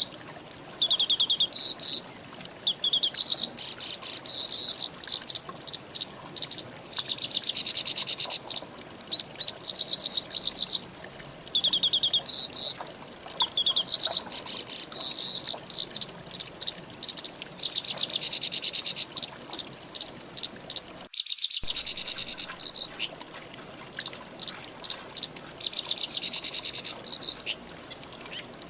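Songbirds singing a busy chorus of rapid trills, each a quick run of repeated high notes, over a steady high insect buzz. The sound cuts out completely for a moment about 21 seconds in.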